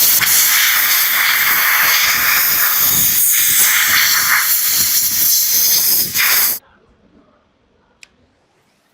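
Loud, steady hiss of a pressurised jet of gas or spray that cuts off abruptly about six and a half seconds in.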